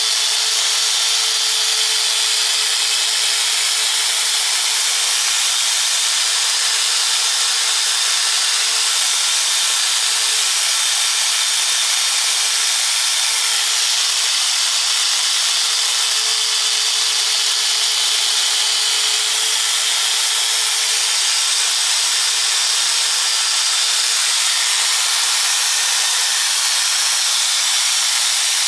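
A machine running steadily and loudly for the whole stretch: a strong even hiss with a faint steady whine underneath, without changes in speed.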